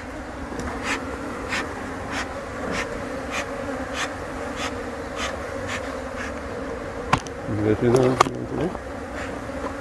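Dense, steady buzzing of a honeybee colony opened up in a wall cavity, a massed hum of many bees' wings. A short louder sound comes about eight seconds in.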